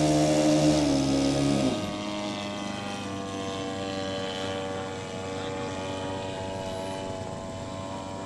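Radio-control model airplane's propeller engine flying past. It is loud at first, its pitch drops about two seconds in as it goes by, and then it is a quieter, steady drone as it flies away.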